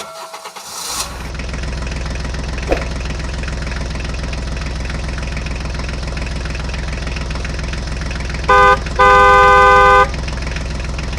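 Vehicle engine running steadily, with a short horn honk about eight and a half seconds in followed at once by a longer honk lasting about a second.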